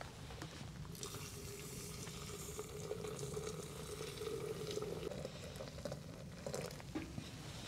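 Water boiling in a pot or kettle on a camp stove: a low, even bubbling hiss with small crackles. A faint steady tone sounds from about a second in until about five seconds in.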